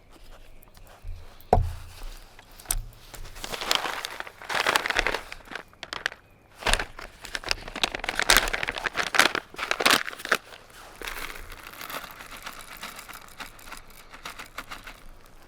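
Crinkling and rustling, like material being handled or crumpled, with scattered clicks and a few sharp knocks; busiest in the middle, with quieter rustling near the end.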